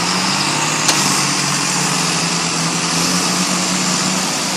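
An engine of a heavy vehicle, such as a tractor, running at a steady speed with a steady low hum, and a single sharp click about a second in.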